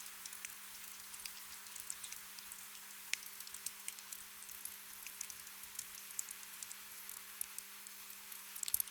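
Gentle rain: a soft steady hiss with many small drops pattering irregularly, and a quick cluster of drops near the end.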